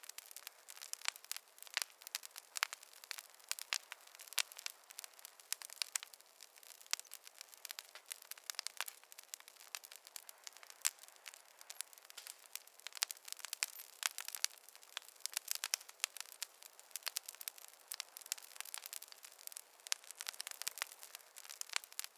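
Campfire crackling: a dense, irregular stream of sharp pops and snaps over a faint hiss.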